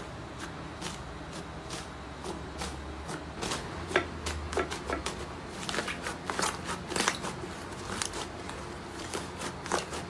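Slime being worked by hand: a run of small wet clicks and crackles, sparse at first and coming thicker and louder after about three seconds, over a low steady hum.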